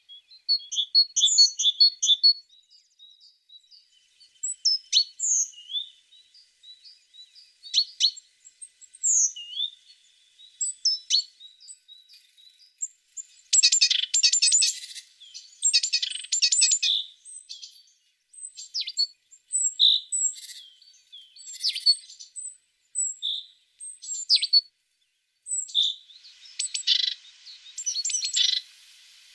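Tits singing and calling: a string of short high chirps and whistled notes, broken by fast, dense trills, the loudest about halfway through and again near the end.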